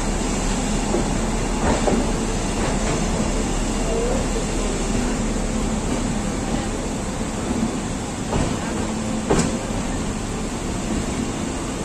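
Express train passenger coach rolling out of a station, heard from its doorway: steady wheel-on-rail running noise with a few sharp clacks.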